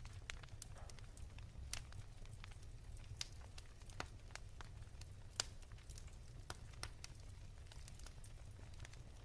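Wood fire crackling softly: irregular sharp pops and snaps of burning logs over a low steady rumble, the loudest pop about five and a half seconds in.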